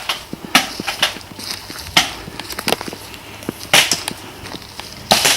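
Sporadic sharp cracks of airsoft guns firing and BBs striking nearby, a second or two apart, the loudest about two and almost four seconds in, followed by a loud rustle near the end.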